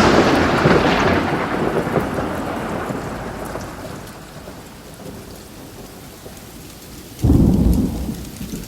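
Thunder with rain: a loud thunderclap rumbles and fades away over several seconds into a steady rain hiss, and a second thunderclap breaks about seven seconds in.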